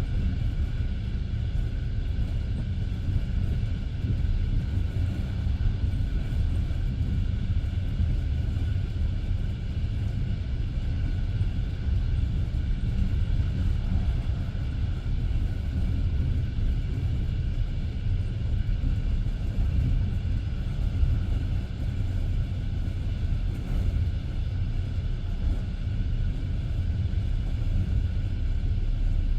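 Passenger train carriage rolling along the track at speed: a steady low rumble of wheels on rails, with the sound of the wheels knocking over the rails beneath it.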